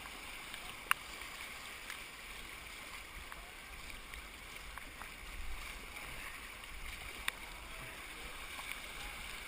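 Steady rush of creek water running over rocks, with a few sharp knocks, one about a second in and another near the end.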